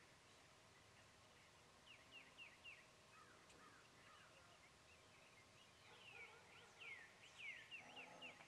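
Faint bird calls over a quiet outdoor hush: short, high chirps that each fall quickly in pitch, in a brief run about two seconds in and a longer, quicker run near the end.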